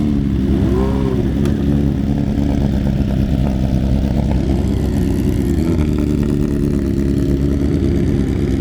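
Sport motorcycle engine idling steadily, with a short blip of the throttle, a quick rise and fall in revs, about a second in.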